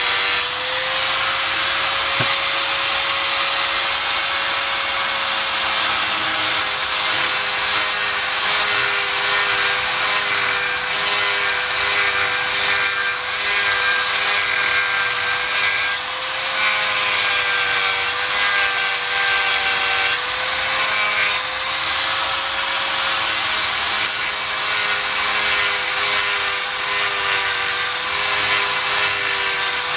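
A handheld power tool motor running without a break, its pitch wavering slightly as it works the material, with a strong high hiss over it.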